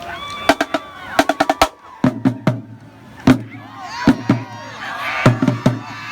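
Marching drumline playing: a quick flurry of snare and tenor-drum strokes, then spaced hits with booming bass drums. Voices are heard behind the drums in the second half.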